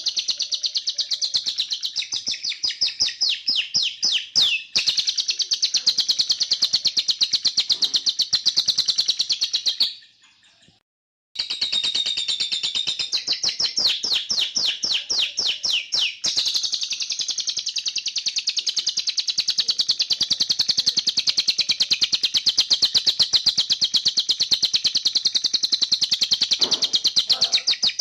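A bird singing a continuous canary-style song of fast, high-pitched rolling trills and rapid-fire repeated notes. The song breaks off abruptly for about a second around ten seconds in, then resumes just as fast.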